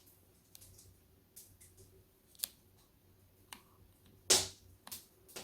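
Wood fire crackling in a brick fireplace's firebox: scattered sharp pops at irregular intervals, the loudest about four seconds in.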